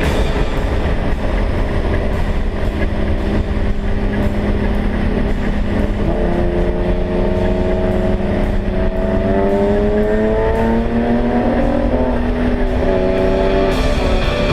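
Ferrari 375 MM's V12 engine accelerating hard, its pitch climbing from about six seconds in, dropping at a gear change a little past ten seconds, then climbing again near the end.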